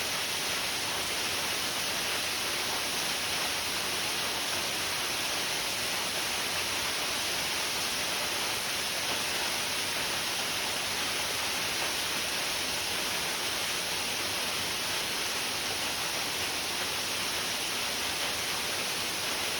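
Waterfall pouring: a steady, unchanging rush of falling water.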